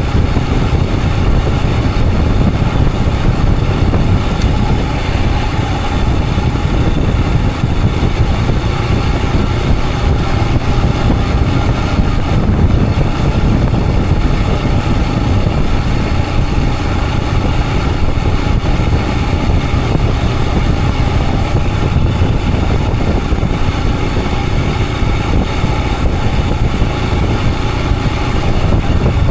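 Royal Enfield Himalayan 411's single-cylinder engine running steadily on the move, heard close up from the rider's point of view. The sound holds even throughout, with a strong low rumble.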